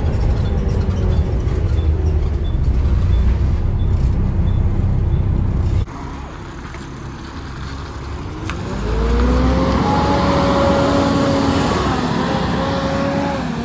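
Volvo B7TL double-decker bus with its six-cylinder diesel running loud under a light regular ticking. About six seconds in the level drops sharply. From about nine seconds the bus pulls away, with a rising engine and transmission whine that then holds steady.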